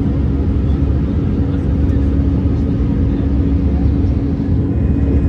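Steady engine and airflow drone heard inside the cabin of an Airbus A320-214 with CFM56 engines: a loud low rumble with a steady hum running through it.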